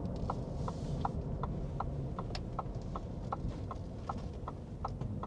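Vehicle turn signal ticking steadily, about two and a half clicks a second, over the low rumble of the truck cabin.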